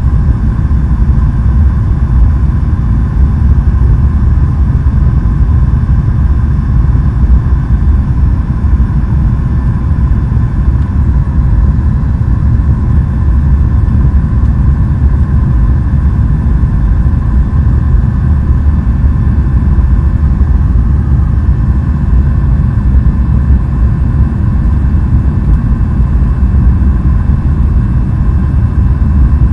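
Jet airliner engines during take-off: a loud, steady low rumble with a faint steady hum, unchanging throughout.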